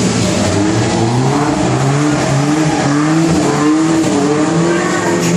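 Stunt car engine revving up and down several times as the car drives across the arena, with tyre noise underneath.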